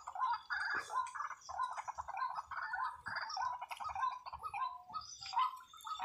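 Birds calling in a continuous chatter of short, quick notes.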